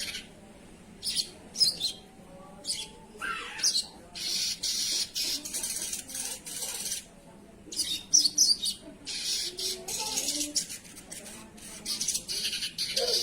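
Spiderhunter (sogok ontong) calling: sharp, high chirps in short clusters, with stretches of harsher, hissing chatter between them.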